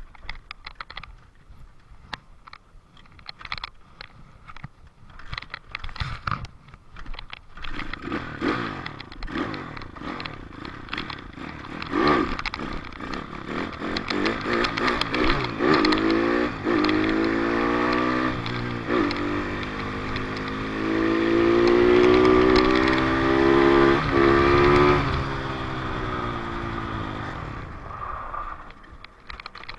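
Dirt bike engine running low amid clattering and scraping, then revving up from about halfway through, held high for a few seconds and dropping back off near the end.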